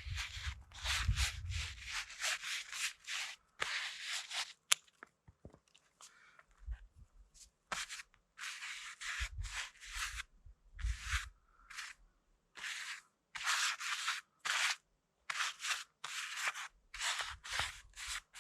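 Rustling and scraping of painting gear being unpacked and handled, in short irregular bursts with brief pauses between them.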